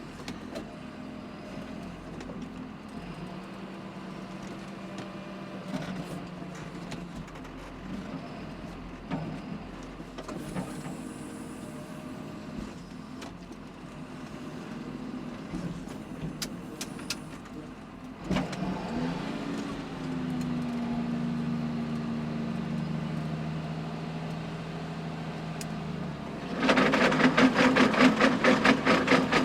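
John Deere tractor's diesel engine running steadily while driving a power harrow. About two-thirds of the way through, the engine note steps up, rises and holds higher. Near the end a loud, rapid clattering sets in: stones knocking against the harrow tines.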